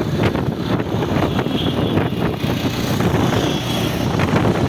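Rajdhani Express train running, a steady rumble with irregular knocks and clatter from the wheels and carriage.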